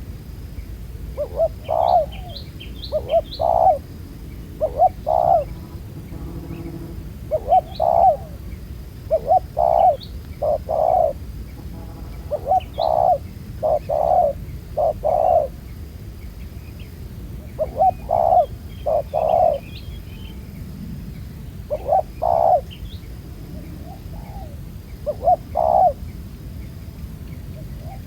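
Spotted dove cooing: phrases of several low coos, repeated every few seconds, with faint high chirps of small birds between them.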